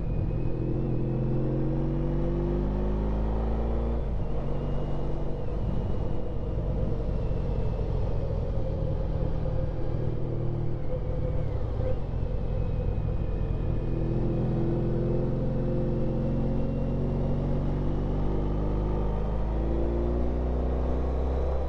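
Honda Pan European ST1300's V4 engine running under way, its pitch falling and rising with the throttle through a series of bends, over steady low wind rush.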